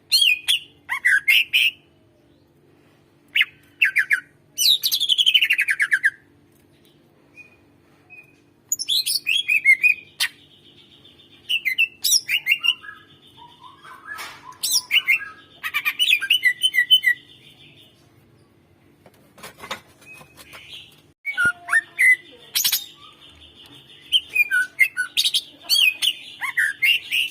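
Greater green leafbird (cucak ijo) singing in bursts of loud chirps and whistles, with a falling sweep early on and several long, even buzzing trills held later.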